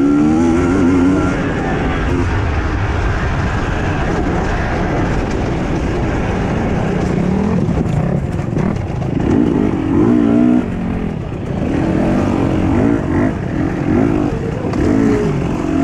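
Husqvarna TE 250i two-stroke enduro motorcycle engine running under a rider, its pitch rising and falling with the throttle, with rushing noise underneath.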